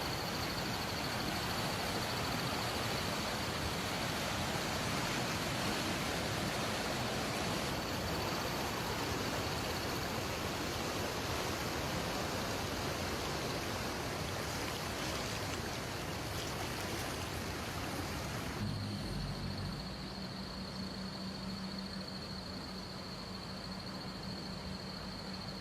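Steady rushing of water, the loud even wash of flooding or heavy rain. About three-quarters of the way through it becomes quieter, and a steady low hum and a thin high whine come in.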